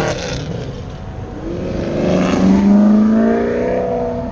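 A car's engine accelerating, its pitch climbing steadily for a couple of seconds and loudest about two-thirds of the way through, then easing off.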